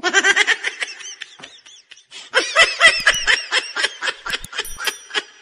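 High-pitched laughter in quick repeated bursts, in two runs with a short break about two seconds in.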